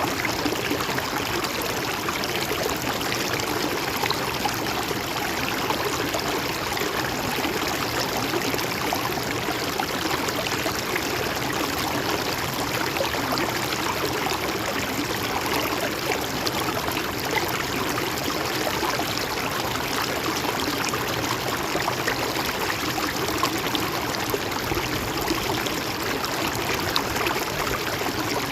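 Mountain stream running steadily over rocks, a constant rush of water with fine trickling and splashing.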